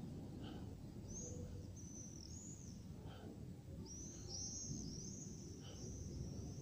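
Steady low outdoor rumble with a bird's high, thin chirping calls over it, one run about a second in and a longer run from about four seconds in.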